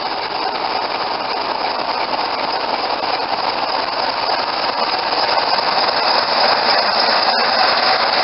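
Diesel train running close by: a loud, steady mechanical noise that slowly grows louder.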